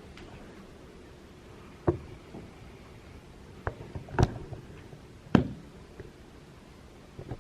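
Four short, sharp knocks or pops, spaced irregularly, with the loudest a little over five seconds in.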